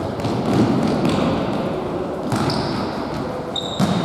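Indoor futsal play: a few knocks of the ball being kicked and bouncing on the hall floor, with two short high squeaks over a steady echoing din.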